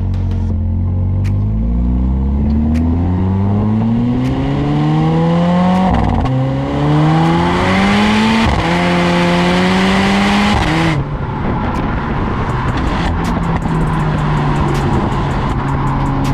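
Mercedes-Benz CLA45 AMG's tuned turbocharged four-cylinder engine accelerating hard, its pitch climbing through the gears with quick dual-clutch upshifts about six and eight and a half seconds in. About eleven seconds in the throttle closes and the engine drops to a steady lower drone.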